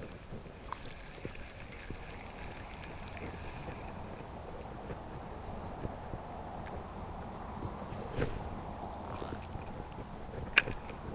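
Steady outdoor background rush with a faint, high, steady insect drone. A few small clicks, and one sharp, loud click near the end.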